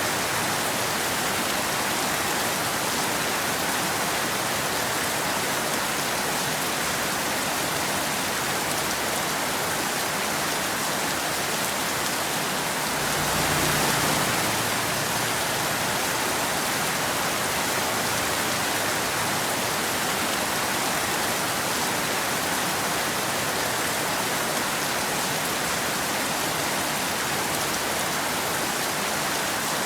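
Steady rain falling, an even hiss of drops with no thunder, swelling slightly louder for a couple of seconds about halfway through.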